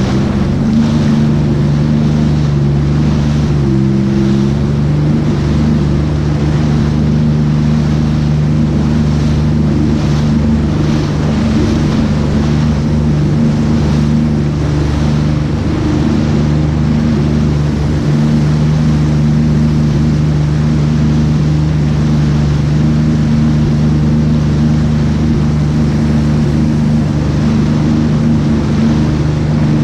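Jet ski engine running at a steady pitch under way, with water rushing and slapping against the hull.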